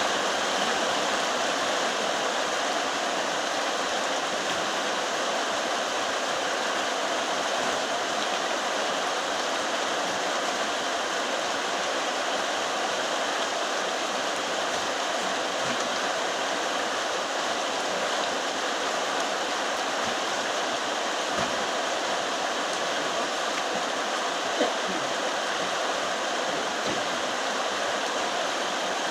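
Very heavy rain falling steadily, a dense even hiss. A single brief tap stands out about two-thirds of the way through.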